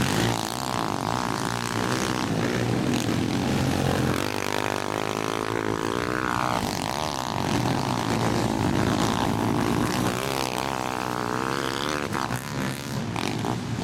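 Several pit bike engines racing, revving up and down with overlapping pitches that rise and fall as riders work the throttle.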